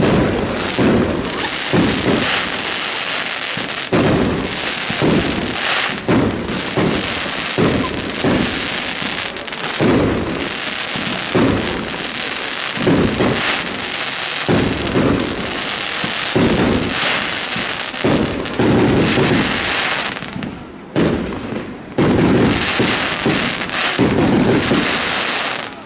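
Fireworks display going off: deep booms about once a second over continuous crackling.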